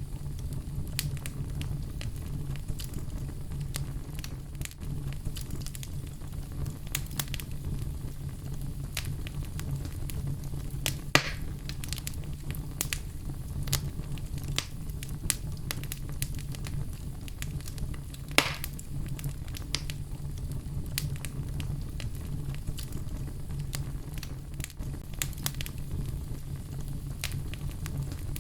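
Wood fire in a fireplace crackling: many small scattered pops over a steady low rumble, with two louder snaps, one about a third of the way in and one about two-thirds in.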